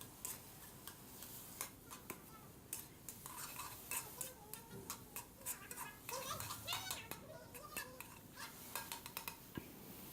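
A utensil scraping and tapping against a frying pan while stirring scrambled egg, heard as a run of irregular light clicks and scrapes.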